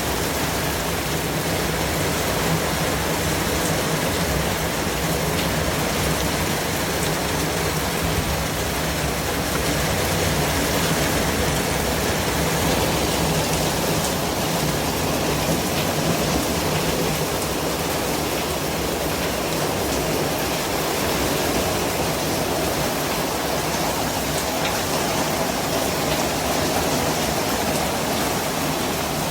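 Steady white noise: an even, unbroken hiss spread across all pitches, holding the same level throughout.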